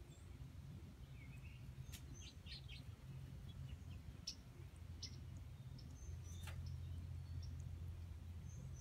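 Short, scattered high bird chirps over a steady low background hum, with a couple of sharp clicks.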